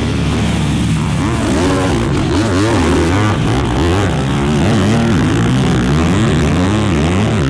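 Off-road racing engine revving hard on a track, its pitch climbing and dropping again and again with the throttle and gear changes.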